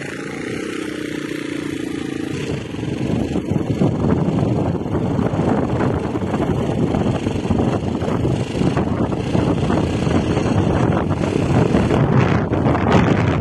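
A motor vehicle running, with a steady low engine tone at first. About two and a half seconds in, a louder, rough rushing noise takes over.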